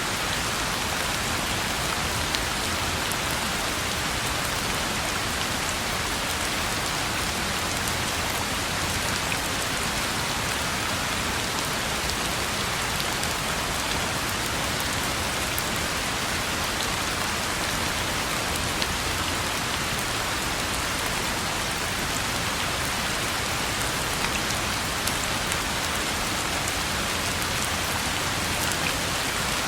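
Steady rain falling on a road, an even hiss sprinkled with small drop ticks, unchanging throughout.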